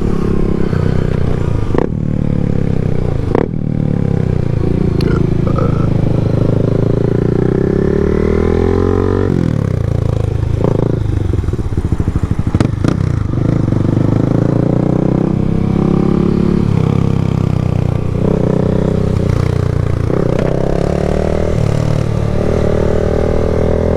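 Yamaha MT-07's parallel-twin engine under way, its pitch rising and falling again and again with throttle and gear changes.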